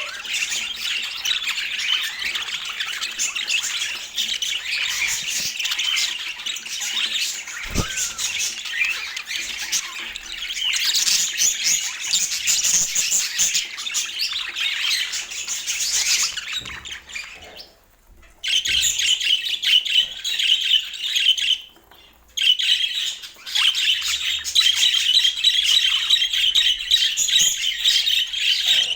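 Budgerigars chattering, a dense run of fast chirps and squawks with two brief breaks in the middle.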